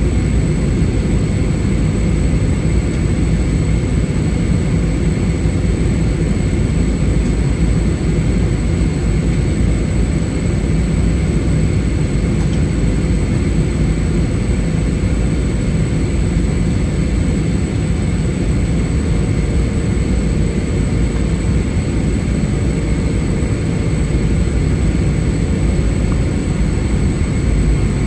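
Airbus A320 cabin noise from a window seat: a steady rumble of engines and airflow, with a thin steady high whine above it.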